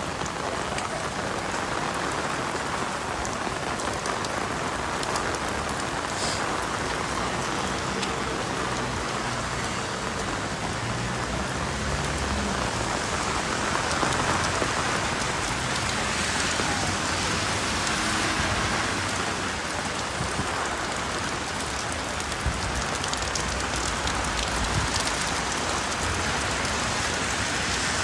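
Steady rain falling, tapping on an umbrella overhead and on the wet pavement.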